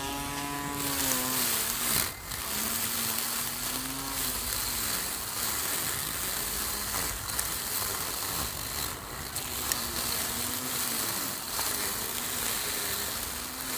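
A small electric garden power tool's motor running and cutting, its whine dipping and recovering every second or two as it takes load, over a steady hiss of cutting.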